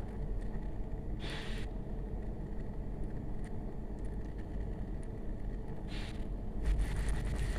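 Pot of chicken adobo in soy sauce and vinegar boiling: a steady low bubbling, with two short hissy rushes, about a second in and about six seconds in.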